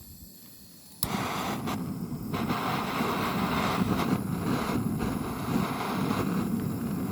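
Gas torch ignited with a sharp click about a second in, then the steady rushing of its flame jet.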